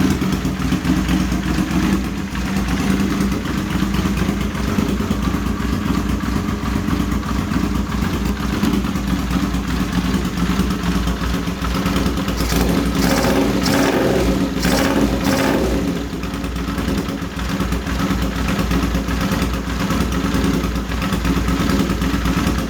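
Honda CX500's liquid-cooled V-twin engine running at idle just after being brought back to life with freshly done carburettors, with a rougher, noisier stretch midway through. It runs, but the owner says it has some problems.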